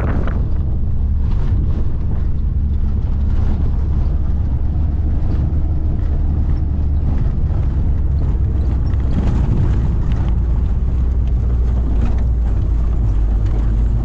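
Steady low rumble of a vehicle on the move, heard from inside it: engine and road noise, with a few faint knocks.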